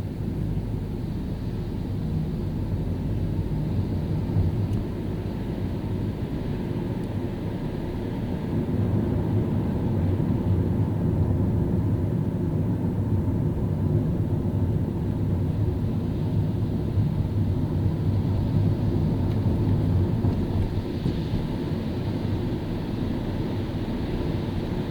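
Car driving on a wet road: a steady low rumble of engine and road noise with a lighter tyre hiss, getting somewhat louder about eight seconds in.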